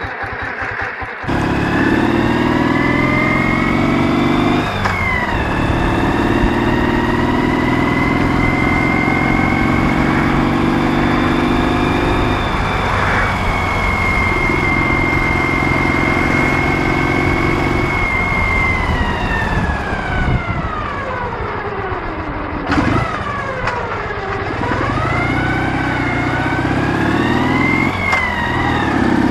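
Ural motorcycle's 650 cc flat-twin engine under way: it picks up about a second in and accelerates with rising pitch, drops in pitch at an upshift about five seconds in, holds a steady speed, slows with falling pitch around twenty seconds in, then accelerates again near the end.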